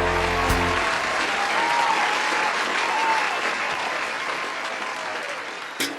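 A live audience applauding at the end of a song. The song's held final chord stops about a second in, and the applause slowly fades.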